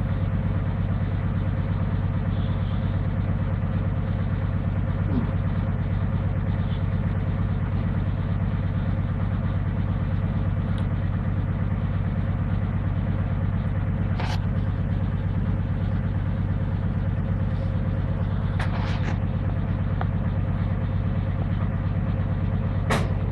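Servis Gem M310 washing machine running with a steady, loud low hum that does not change, with a few faint clicks.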